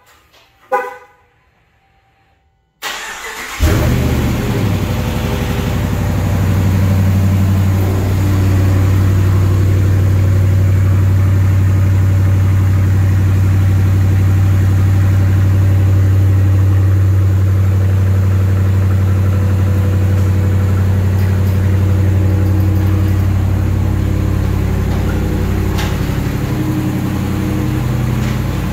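A short horn chirp, then about three seconds in the 2022 Dodge Challenger R/T's 5.7-litre HEMI V8 cranks and fires on a cold remote start and runs at a steady, deep idle through its stock mufflers and resonators.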